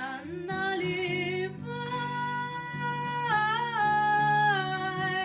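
A girl singing in Russian, holding the long notes of the word "наливай" with a wavering vibrato and stepping down in pitch partway through, over acoustic guitar chords.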